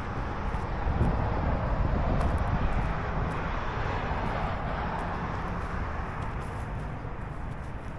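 Distant engine noise passing by: a steady rush that swells over the first few seconds, then slowly fades.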